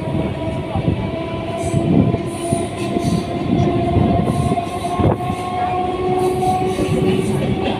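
Passenger train running, heard from its open door: a steady rumble of wheels on rail with a few sharp knocks, and a held whine that rises slightly in pitch.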